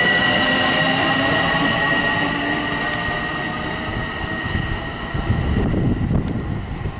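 Long Island Rail Road train going by, with a steady high-pitched squeal over the rumble of the cars; the sound fades away over the last few seconds.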